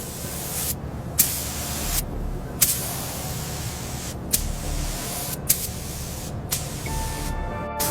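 Spray gun hissing in repeated on-off bursts, each starting with a sharp click as the trigger opens, about six or seven bursts in all.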